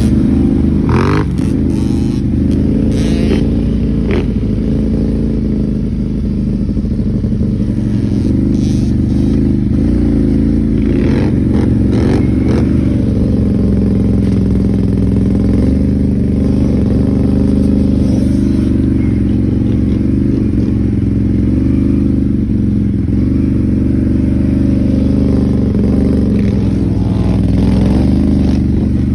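Off-road vehicle engines running loudly and steadily, the pitch shifting a little with the throttle, with scattered short clatters and knocks.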